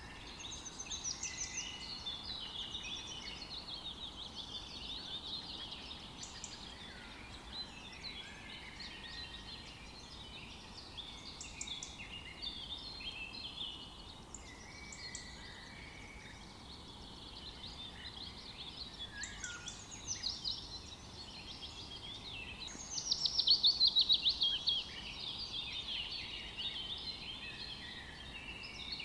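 Several forest birds singing and calling over one another, quick chirps, trills and short whistled glides, over a faint steady background hiss. The loudest moment is a rapid trill lasting about two seconds, about three-quarters of the way through.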